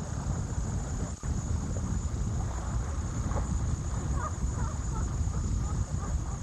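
Wind buffeting the microphone aboard a sailboat under way, with a few faint short high calls or squeaks in the second half.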